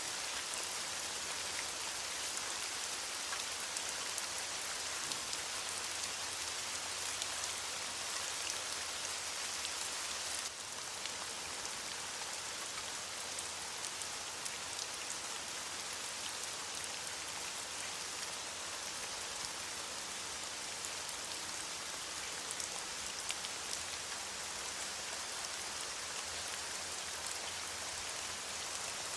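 Steady rain falling on leaves: a dense, even hiss of many small drops, with a slight drop in loudness about ten seconds in.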